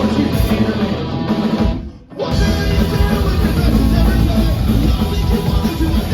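Loud live punk rock band playing: electric guitar, bass and drum kit. The music drops out for a moment about two seconds in, then comes straight back.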